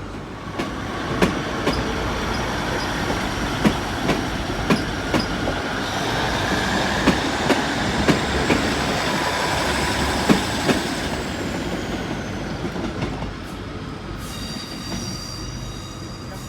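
A train moving slowly along the platform, its wheels clicking over rail joints about twice a second, with a thin high-pitched wheel squeal in the middle. It grows louder as the train passes and then fades.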